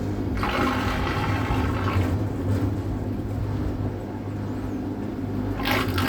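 Steady low hum of a boat's motor running on the water, with two short bursts of hiss: one from about half a second to two seconds in, and a brief one near the end.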